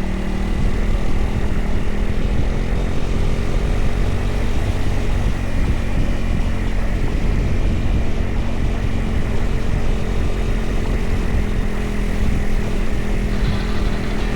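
Single-cylinder dual-sport motorcycle engine running steadily while riding, with a low, even drone.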